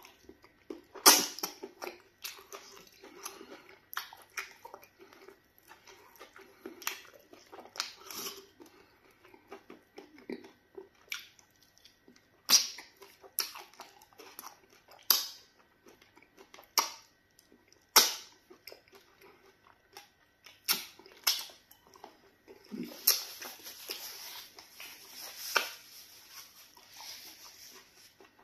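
Close-miked eating of pounded yam fufu with slimy okra soup, eaten by hand: wet chewing and lip-smacking, with sharp smacking clicks every second or so and a longer, hissier stretch of mouth noise near the end.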